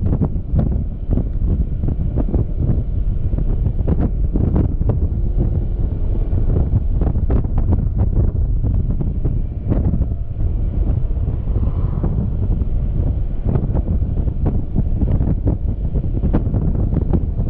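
Wind buffeting a GoPro action camera's microphone on a Yamaha XMAX scooter at freeway speed: a heavy low rumble with irregular gusts that largely masks the scooter's engine and tyre noise.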